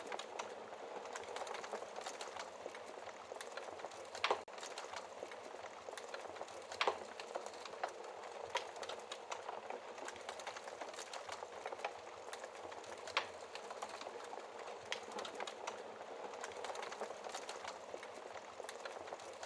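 Wood fire burning in a fireplace: a steady soft crackle with sharp louder pops, the strongest about 4, 7 and 13 seconds in.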